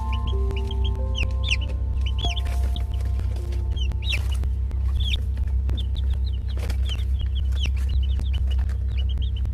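Chickens clucking, with many short high chirps throughout, over soft background music of slow held notes and a steady low hum.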